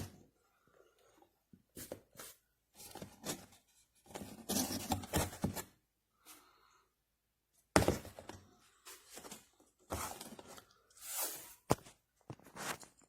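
Hands handling objects and packaging: scattered rustles and scrapes with several knocks. The loudest is a sharp knock about eight seconds in, and there is a short sharp click about three seconds before the end.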